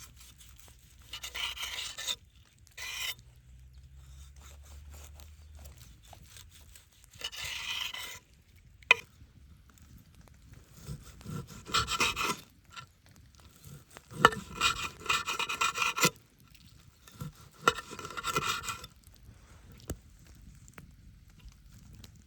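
Several bursts of rasping, scraping strokes from food being prepared by hand, with a few sharp knocks in between.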